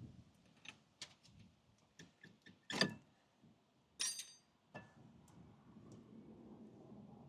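Brake parts being handled: a string of metal clicks and knocks, with a loud knock about three seconds in and a ringing metallic clink a second later.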